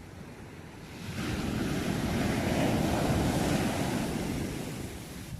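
Sea wave breaking and washing up: a rush of surf that swells about a second in, holds for a couple of seconds, then fades away.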